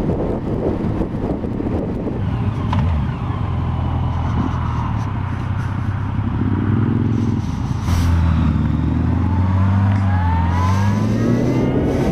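Motorcycle engine running at road speed with wind rushing over the microphone. The engine note steadies about two seconds in, then rises and falls through the second half and climbs near the end as the bike accelerates.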